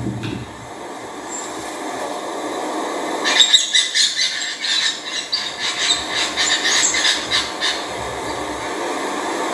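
A bird's rapid, high chattering calls: a quick run of repeated notes that starts about three seconds in and lasts about four seconds, over a steady background rush.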